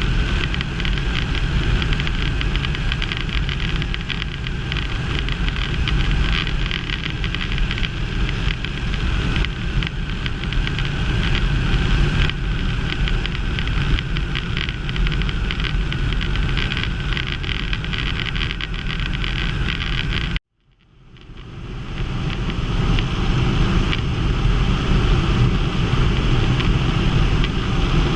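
Quik GT450 trike's Rotax 912 engine running steadily in flight, with wind rushing over the microphone. About twenty seconds in, the sound cuts out abruptly, then fades back in over a second or two.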